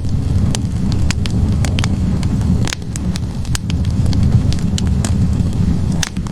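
Wood logs burning in a fireplace: a steady low rumble of the fire with frequent, irregular sharp crackles and pops from the burning wood.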